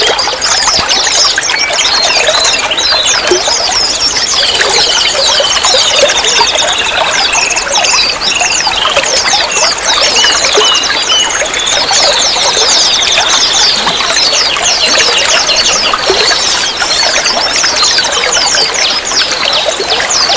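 Water trickling and pouring steadily, with a dense chorus of small birds chirping in fast, high-pitched notes throughout.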